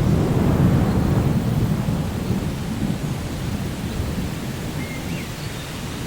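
Rolling thunder over steady rain: a deep rumble, loudest in the first couple of seconds, that slowly fades. A bird gives a short chirp about five seconds in.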